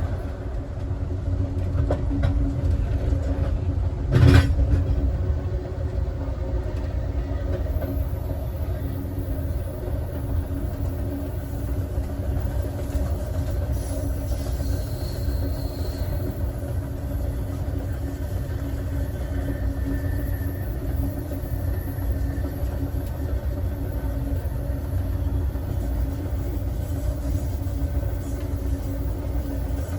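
Passenger train running along the rails, heard from its last car: a steady low rumble with a single sharp knock about four seconds in.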